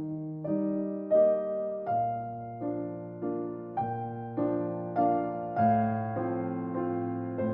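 Solo piano playing a slow, gentle instrumental Christmas tune, a new note or chord struck a little less than twice a second and left to ring.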